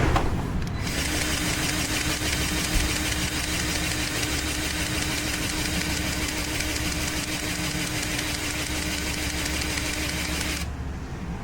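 A motorised machine runs steadily for about ten seconds, a loud hiss with a steady hum, starting abruptly about a second in and cutting off suddenly near the end, after a sharp click at the start.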